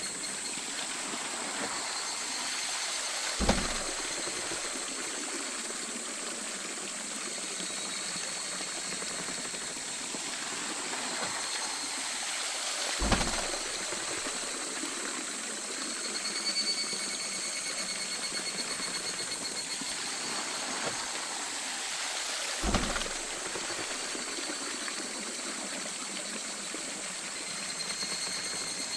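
Water running and splashing steadily at a traditional waterwheel, with a dull low thump about every ten seconds, three times in all.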